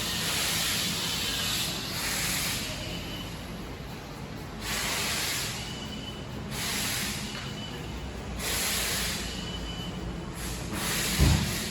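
Heavy truck engine idling steadily, with bursts of hiss about every two seconds and a short thump near the end.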